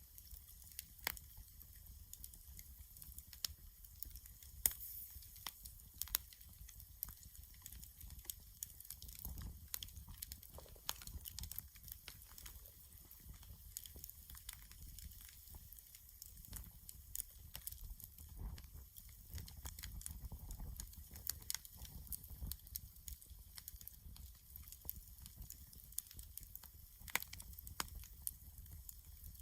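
Wood campfire crackling, with scattered sharp pops and snaps every second or so.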